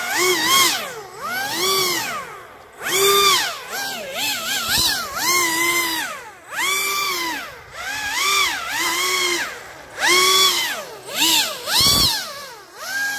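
Pro Boat Aerotrooper RC fan boat's electric motor and air propeller on a 4S battery, revved up and down in quick throttle blips: about a dozen rising-and-falling whines.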